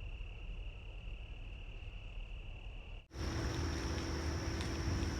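Crickets trilling steadily over a low rumble. About three seconds in, the sound cuts to another recording with a higher-pitched insect trill over a louder hiss.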